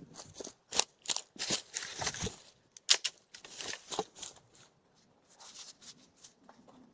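Irregular rustling and crackling with many sharp crackles for about four seconds, then fainter, sparser ticks.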